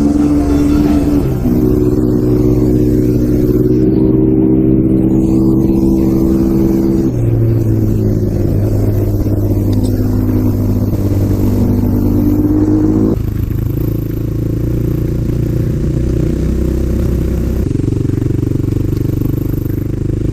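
Single-cylinder dual-sport motorcycle engine running under way at steady throttle, its pitch stepping to a new level a few times as speed or gear changes.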